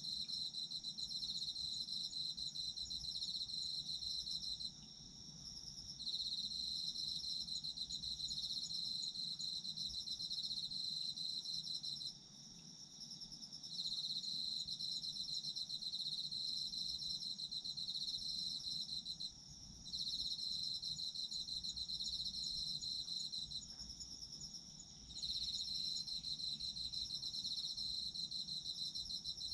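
Autumn insects singing: one loud, high-pitched, finely pulsed trill comes in bouts of about five seconds with breaks of a second or two, over a fainter steady chorus of other insects.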